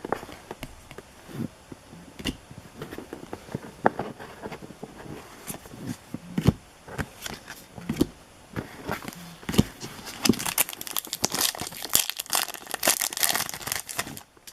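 Foil trading-card pack wrapper crinkling and tearing, with scattered sharp clicks and taps from cards being handled. The crinkling grows dense and continuous in the last few seconds.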